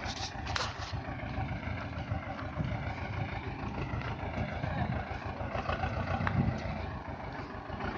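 Swaraj 724 tractor's two-cylinder diesel engine running steadily with a fast, even chug.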